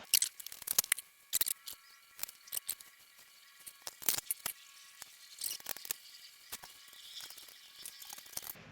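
Irregular small clicks and clinks of metal carburetor parts and hand tools being handled during work on a garden tractor, with a faint steady tone in the background.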